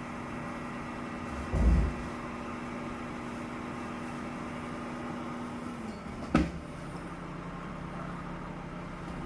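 Garbage truck engine running with a steady hum that steps down in pitch about six seconds in. A low thud comes about a second and a half in, and a sharp knock just after the pitch drop.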